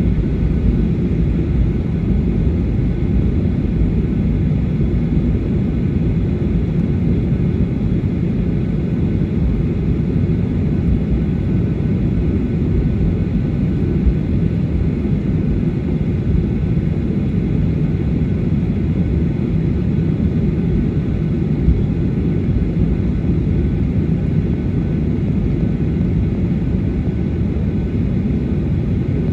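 Steady low rumble of a Boeing 737-800's CFM56-7B jet engines at taxi power, heard inside the passenger cabin.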